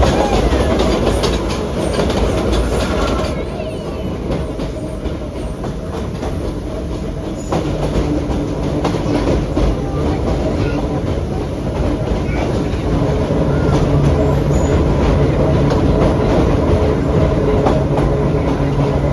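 Vintage BMT BU elevated gate cars running along the track, heard from aboard: a steady rumble with repeated clicks from the rail joints. A steady hum comes in partway through and grows stronger toward the end.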